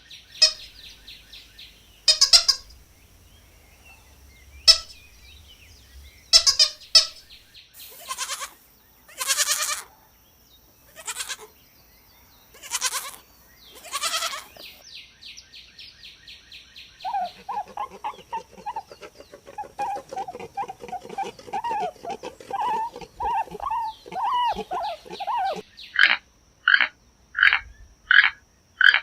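A run of farm animal calls: short separate calls and loud bursts at first, then goats bleating in a long wavering stretch through the second half, with a quick series of sharp high calls near the end.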